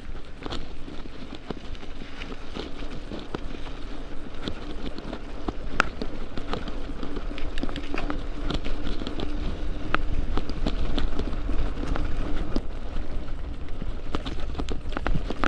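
Bicycle ridden over a bumpy path: the bike rattles and knocks over uneven ground, over a low rumble of tyres and moving air, with a steady hum that stops about three-quarters of the way through.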